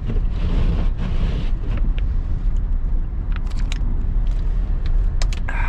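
Steady low rumble of a car's engine and tyres heard inside the cabin while driving, with a short hiss near the start and a few light clicks in the second half.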